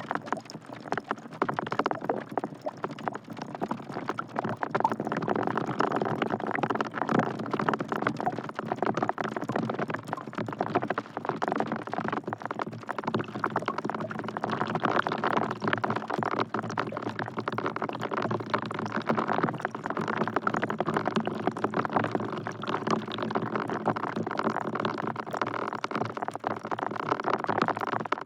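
Steady rain falling into a bucket: a dense, continuous patter of drops splashing and ticking, with no let-up, cutting off suddenly at the end.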